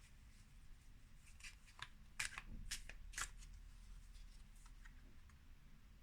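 Oracle cards being handled and shuffled: a faint rustle with a few soft, quick flicks of card stock, clustered about two to three seconds in.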